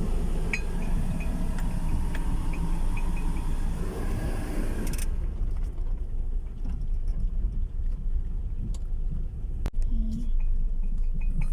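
Nissan NP200 bakkie driving on a rough dirt road, heard from inside the cab: a steady low rumble of engine and tyres. A higher hiss drops away about five seconds in.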